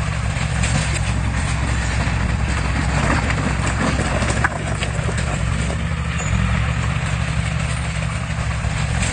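Diesel engine of heavy earthmoving machinery running with a deep, steady rumble, with irregular metallic clanks and rattles over it.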